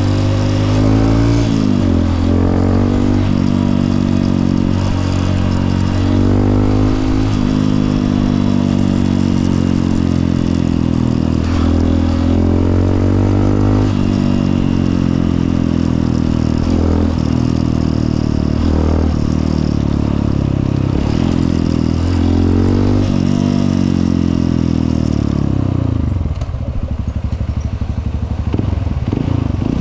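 Honda CRF150L's single-cylinder four-stroke engine on the move, revving up and dropping back again and again as it shifts through the gears, with wind and road noise. About 26 seconds in, the revs fall away to a low, slow putter.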